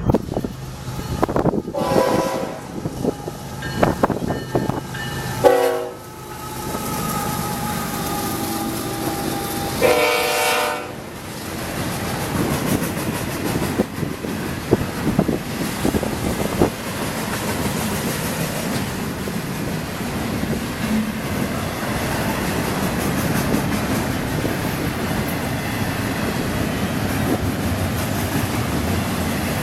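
Freight train horn, a chord of several notes, sounded in a few blasts over the first eleven seconds, the last one near ten seconds the loudest; then the steady rumble and rhythmic wheel clicks of the long intermodal train rolling past behind GE Evolution-series diesel locomotives.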